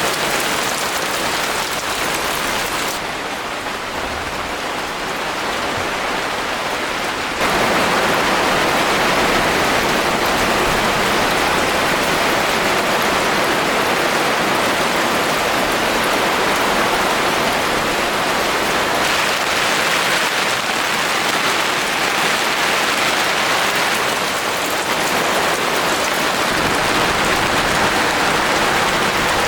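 Steady heavy rain falling, a dense even hiss with no breaks. It is duller for a few seconds near the start, then turns brighter again suddenly.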